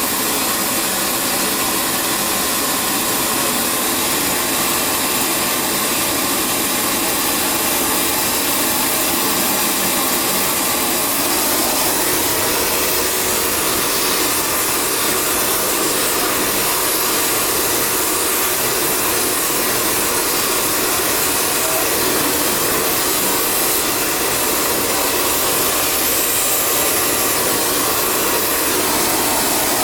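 A steady rushing noise, like a blower, holding an even level throughout with no breaks or strikes.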